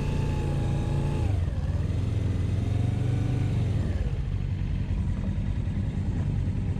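Motorcycle engine running while riding, its note dropping in pitch about a second and a half in and again around four seconds in as the bike eases off.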